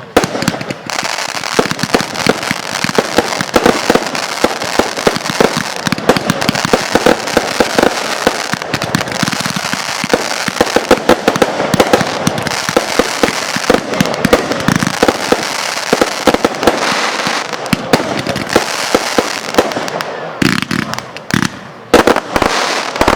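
Fireworks going off in a dense, rapid crackle of many sharp pops close together for about twenty seconds, like a long string of firecrackers or a crackling cake. It ends with a few separate, louder bangs near the end.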